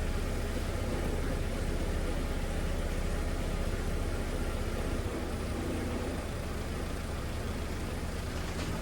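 Volkswagen Passat's engine running steadily while the restored car is test-driven; its note shifts and gets slightly quieter about five seconds in.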